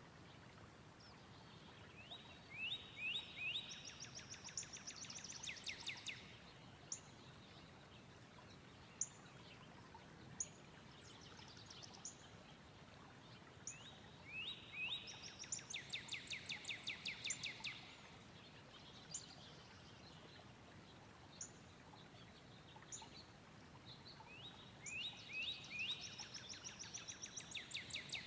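A songbird singing the same song three times, each a few falling notes run into a fast trill, with single high chip notes between the songs over a faint steady background hiss.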